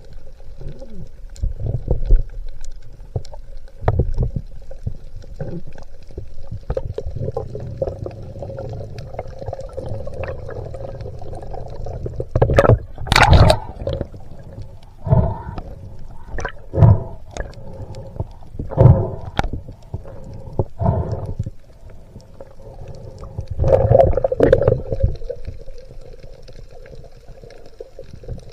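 Water sloshing and gurgling around a spearfisher's camera, muffled as if in or under the water, with loud bubbling surges every couple of seconds through the middle and another near the end.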